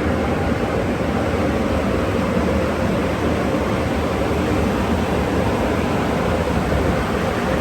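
Automatic car wash tunnel equipment running: a loud, steady rushing noise with a faint hum underneath.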